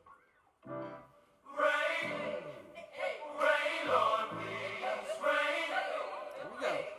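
Gospel-style music with a choir singing over a bass line, coming in after a brief near-silent pause about a second and a half in.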